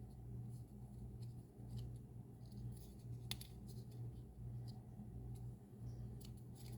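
Faint paper-craft handling noises: small ticks and rustles of cardstock pieces being handled and glued, with one sharper click about a third of the way in, over a steady low hum.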